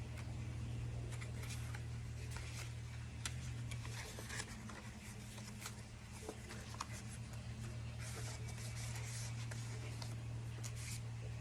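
Scattered short scratching and rustling handling sounds over a steady low hum.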